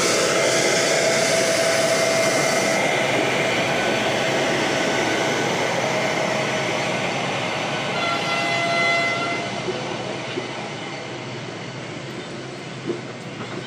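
Indian Railways electric locomotive passing slowly along the platform, a loud hiss with a steady whine, then its passenger coaches rolling by and growing quieter. A few faint clicks from the wheels come near the end.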